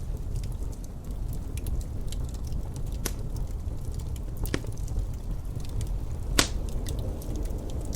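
Wood fire crackling in a fireplace: many small crackles and a few sharp pops, the loudest about six seconds in, over a steady low rumble.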